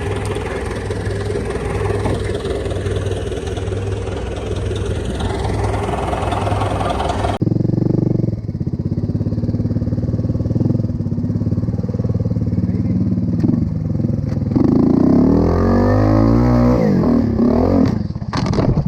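Dirt bike engines running under riding. About halfway through the sound changes abruptly, and a bike then revs up and down. A few sharp knocks follow near the end.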